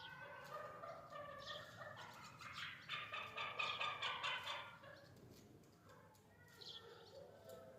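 Chukar partridge calling: a run of repeated clucking calls that grows loudest around the middle and then tails off.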